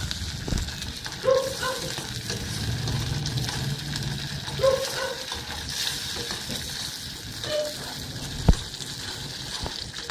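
Chicken frying and sizzling in a pan, with a few short clinks of a utensil against the pan and one sharp knock near the end.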